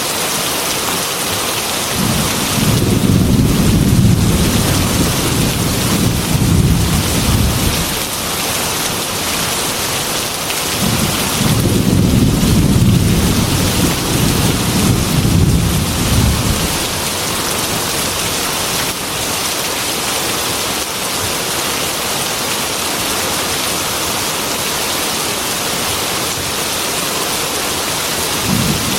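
Heavy rain falling steadily on a metal roof, with two long, low rolls of thunder: one from about two seconds in lasting some six seconds, another from about eleven to sixteen seconds.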